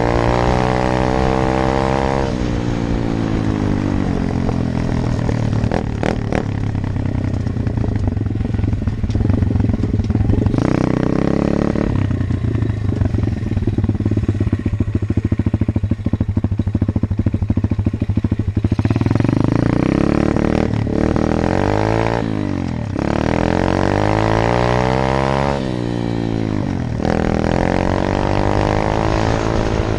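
125 cc Apollo dirt bike engine running under throttle while riding. The pitch drops about two seconds in, holds at a rough, high steady pitch through the middle, then rises and falls several times near the end as the throttle is worked.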